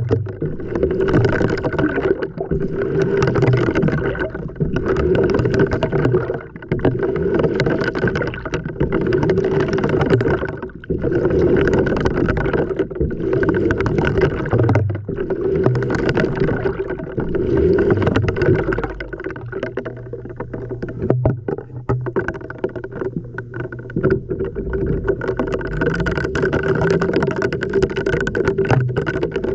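LG front-loading washing machine tumbling a wash load, heard from inside the drum: water and laundry slosh in regular surges about every two seconds over a steady motor hum. The sloshing eases for a few seconds past the middle, then picks up again.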